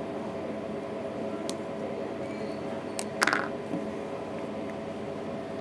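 Small clicks and a brief scraping handling sound from working on the opened iPhone 3GS's parts with small tools: one click about a second and a half in, then a sharper click followed by a short scrape about three seconds in. A steady low hum runs underneath.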